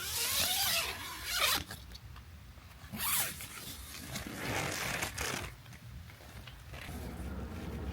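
A zipper being pulled open or shut in several quick, scraping strokes.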